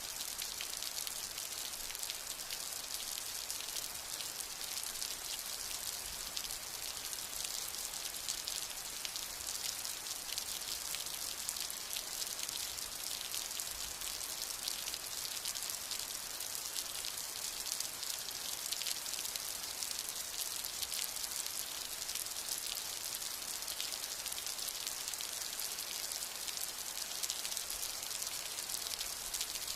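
Steady rain falling: an even hiss of many small drop hits, with no change in strength and no thunder.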